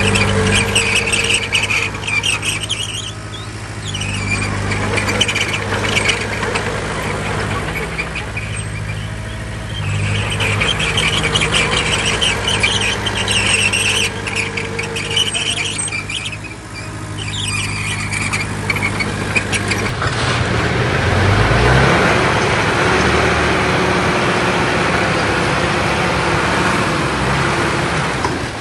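Bulldozer's diesel engine running at a steady note while its crawler tracks squeal on and off. About twenty seconds in, the engine note shifts and the squealing gives way to a rougher, noisier clatter.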